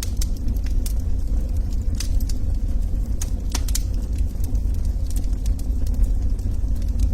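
Wood fire in a fireplace crackling: irregular sharp pops and snaps of burning logs over a steady low rumble.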